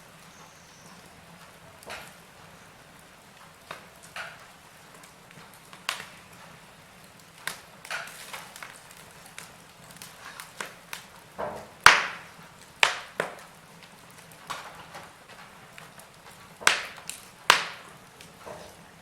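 Wood fire crackling in a fireplace: irregular sharp pops and snaps over a faint low hiss, with the loudest pops a little past halfway and again near the end.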